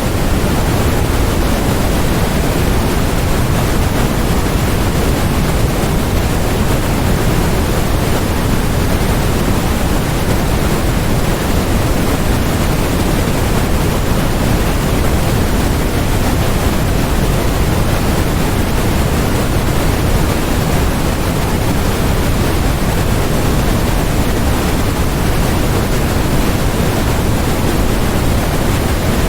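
Steady, unchanging noise played as a white-noise masking track, with more weight in the low end than in the highs, closer to pink noise than to flat white noise.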